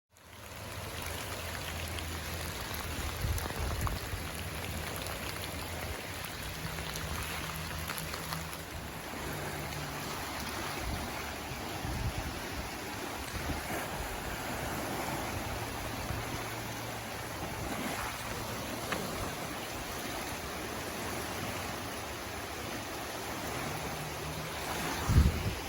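Swollen floodwater rushing steadily, with a brief thump near the end.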